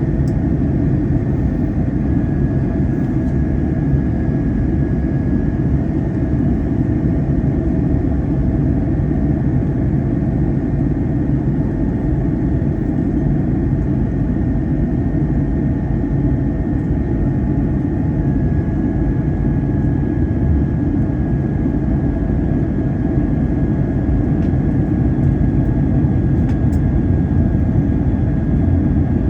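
Airbus A321 cabin noise in flight: a steady deep rumble of engines and airflow, with a faint steady whine above it.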